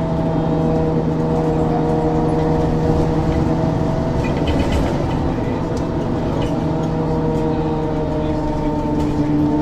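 Diesel engine of a 1994 Ikarus 435 articulated bus with a ZF gearbox, running under way at fairly steady revs. The note grows a little stronger near the end.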